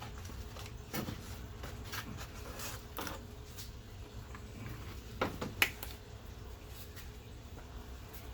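Scattered light clicks and knocks of the unbolted radiator fan assembly being worked loose from the engine bay, with two sharper knocks a little after five seconds in.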